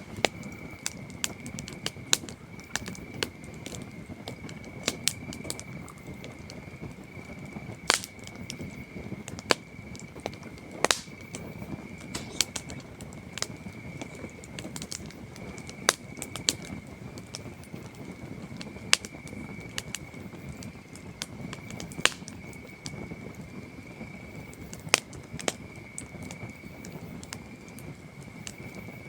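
Campfire crackling, with irregular sharp pops and snaps of burning wood, over a steady high chirring of crickets.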